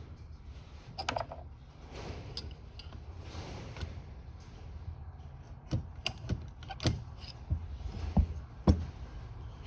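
Small aluminum carburetor parts clicking and clinking as they are handled during disassembly, with a cluster of sharper knocks in the second half.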